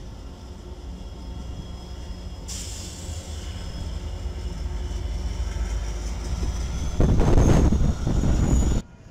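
Train drawing closer and growing steadily louder, with high-pitched whining tones from the rails and wheels joining in about two and a half seconds in. Near the end a much louder rumble as it passes close by, which cuts off suddenly.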